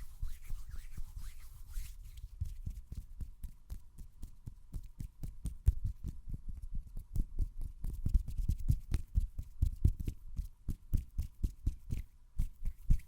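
Hands rubbing briskly close to the microphone, then a fast run of dull pats and taps, several a second, each with a soft click on top.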